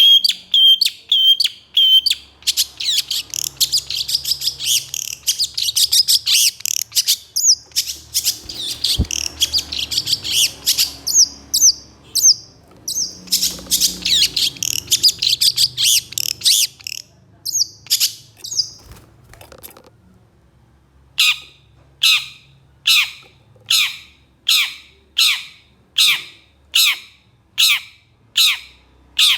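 Long-tailed shrike (cendet) singing a fast, dense chattering song, then, after a short pause about twenty seconds in, repeating a harsh falling call about three times every two seconds.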